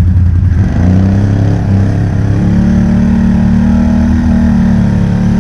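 ATV engine running close by, revving up about a second in, easing briefly, then held steady at higher revs.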